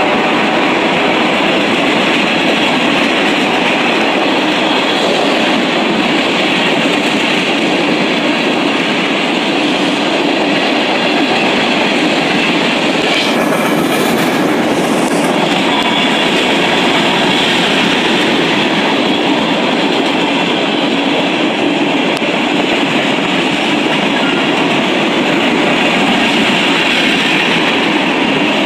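Freight train of tank cars rolling past: steady, loud noise of steel wheels on rail with a clickety-clack from the rail joints. About halfway through there is a brief burst of higher hiss.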